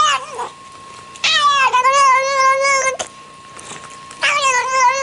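Cat yowling: two long, drawn-out, wavering meows, each nearly two seconds, the second still going at the end.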